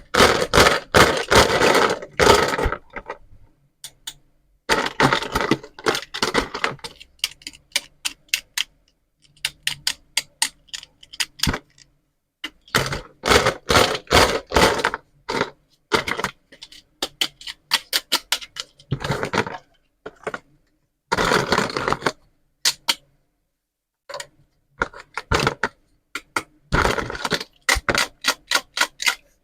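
Pieces of a toy pizza and vegetable play set being handled: repeated clicks, clacks and rattles in bursts of a second or two, with short pauses between them.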